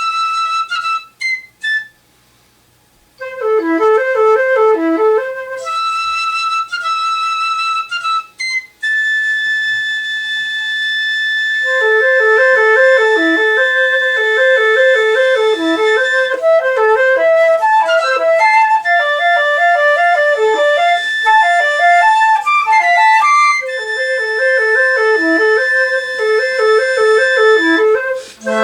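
A multitracked flute ensemble, one player on every part, with alto flute among them. Short high phrases with gaps open the passage. Then lower flutes play rippling repeated figures while one high note is held for a long stretch over them.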